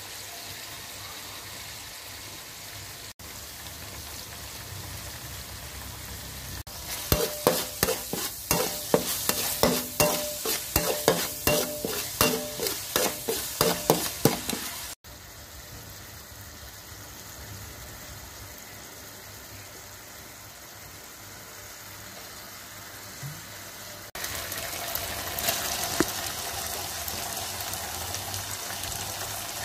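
Minced pork sizzling in a thin metal wok while being stirred with a metal spoon. From about seven seconds in, the spoon scrapes and knocks against the wok with a ringing clank about three times a second for some seven seconds; the sizzle grows louder near the end.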